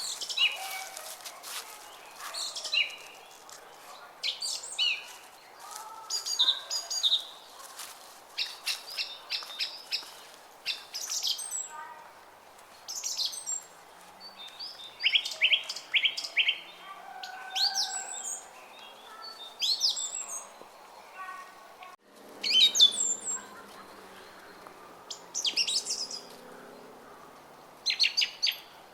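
Small songbirds chirping and calling in quick, repeated short notes and trills, several birds overlapping, over the steady rush of a brook.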